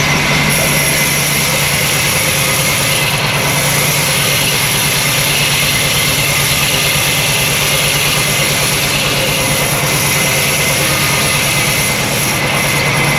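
Sawmill saw machinery running with a steady, unbroken mechanical noise and a constant low hum.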